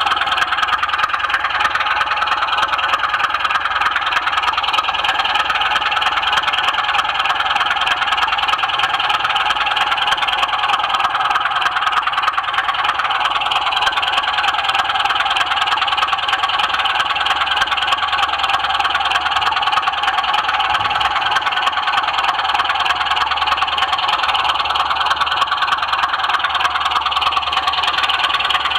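Model railway train running on the track, heard close up: a steady mechanical whirr with dense fine clicking from wheels and gears on the rails.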